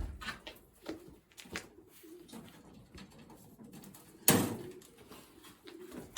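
Racing pigeons cooing softly, with a single sharp knock about four seconds in.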